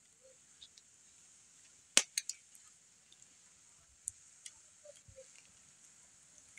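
A few sharp clicks and ticks over a faint steady hiss: one loud click about two seconds in, two smaller ones right after it, and fainter ticks around four seconds in.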